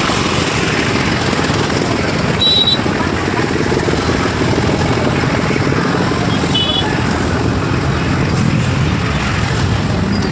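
Motor traffic in a jammed street: steady engine and road noise from scooters, motorbikes and other vehicles, with two short high beeps about two and a half and seven seconds in.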